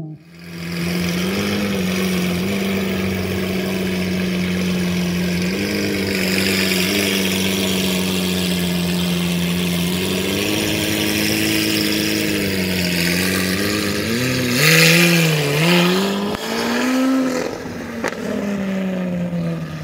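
Lamborghini Aventador SV's V12 engine idling steadily with a few light throttle blips, then revving up and down several times as the car drives off, loudest about three-quarters through.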